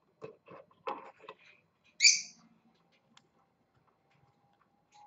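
Small parrot, a lovebird, giving one short harsh squawk about two seconds in, after a few soft clicks and rustles from handling.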